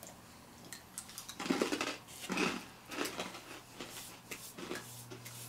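Small crisp spicy crackers being crunched and chewed, with a few short crunches in the middle.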